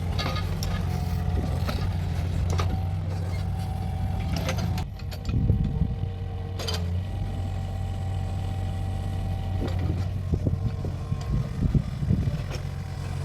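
Mini excavator's diesel engine running steadily while it digs, with scattered sharp clicks and clanks from the working machine. There is a brief dip and a few low thumps about five to seven seconds in.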